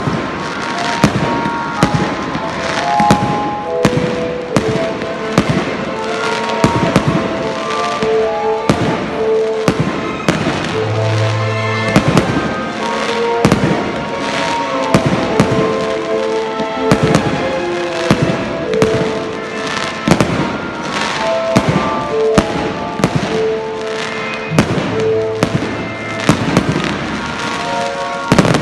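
Aerial fireworks display: shells bursting one after another, a sharp bang every second or so, over music with a clear melody.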